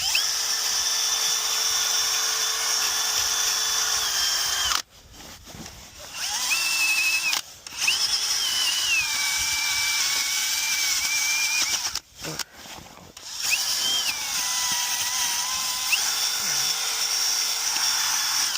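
Handheld power drill running in four bursts of a few seconds each, scrubbing the starter mounting surface on the engine block clean. Its whine drops in pitch when it is pressed into the work.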